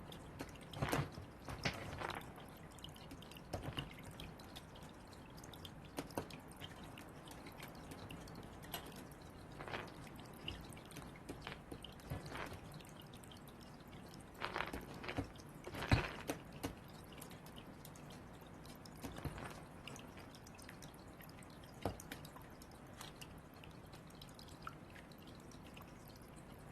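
Irregular sharp taps and knocks, some in quick clusters of several strokes: Northwestern crows pecking at the balls with their beaks.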